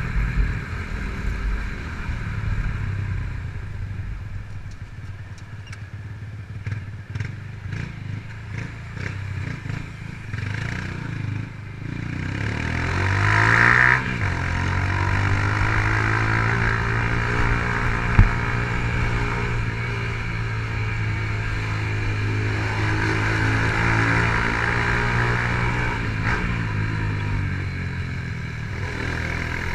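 2007 Honda CG Titan 150's carbureted single-cylinder four-stroke engine with an aftermarket Fortuna exhaust, heard from on the moving bike. It runs unevenly at low revs at first, then revs up with a rising pitch about twelve seconds in and drops sharply as it shifts up, before holding a steady cruise. Road and wind noise sit underneath, and there is one sharp knock about eighteen seconds in.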